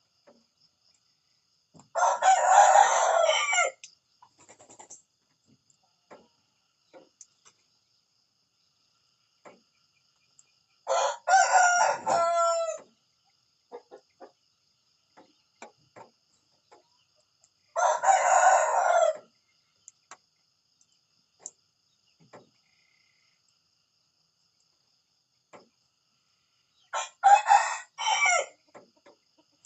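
Rooster crowing four times, each crow a loud cock-a-doodle-doo of about one and a half to two seconds, several seconds apart, with faint short sounds in between.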